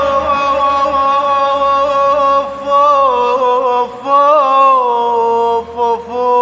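A young man singing a sad Arabic mawwal solo: long held vocal notes with wavering melismatic ornaments, pausing briefly twice.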